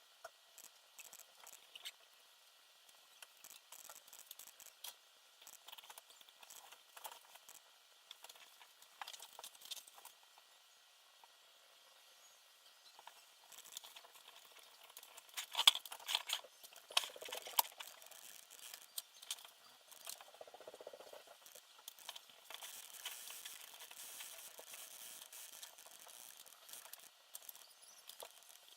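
Small parts and hand tools handled during quadcopter assembly: irregular light clicks, taps and rustles, with a sharper cluster of clicks a little past halfway and a soft hiss for a few seconds near the end.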